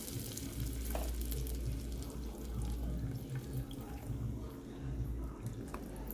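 Chicken stock simmering and bubbling in a pan with butter and garlic, a steady liquid sound with a few small pops, over a low steady hum.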